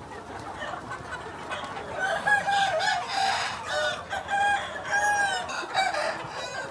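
Free-range chickens clucking, with a run of loud rooster crowing calls from about two seconds in until near the end.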